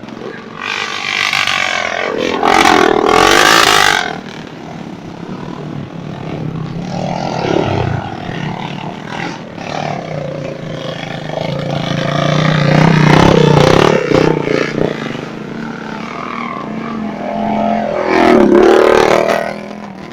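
Trail motorcycle engine revving hard and easing off. Loud surges of acceleration come about two seconds in and again near the end, with a steadier running note in between.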